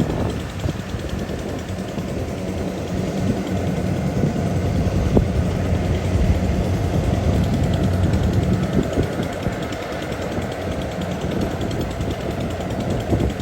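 Rice combine harvester engine running steadily with a low hum.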